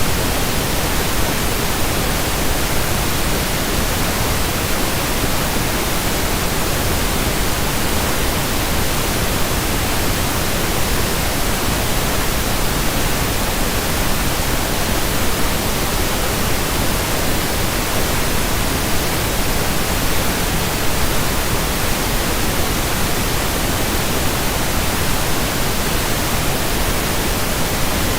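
Synthetic pink noise: a steady, even hiss across all pitches, with no change or events.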